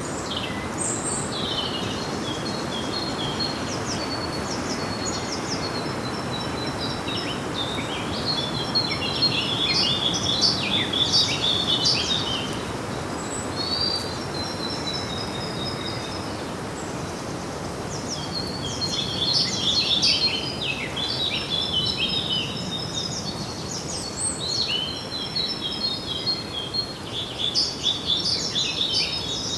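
Songbirds singing in bouts of fast chirps and trills over a steady background hiss, with the busiest singing about a third of the way in, around two thirds of the way in, and near the end.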